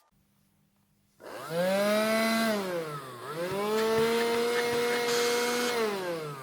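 Bosch cordless vacuum cleaner's motor running on its newly rebuilt battery pack: a whine rises as it spins up, dips and climbs back about three seconds in, then winds down near the end.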